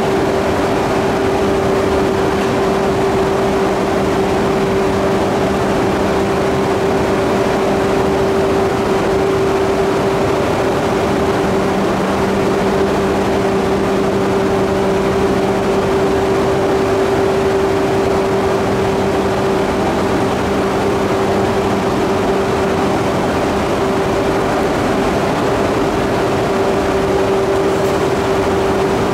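E3 series 2000 mini-shinkansen standing at the platform, its onboard equipment humming steadily with one constant mid-pitched tone. A lower hum drops out and comes back a few times.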